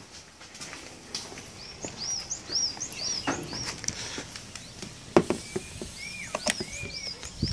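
A bird singing a run of quick, arched chirps, about three a second, with a few longer, lower whistles in the second half. Over it come several sharp clicks, the loudest about five and six and a half seconds in, as the charge-port cap on the Kia Soul EV is handled.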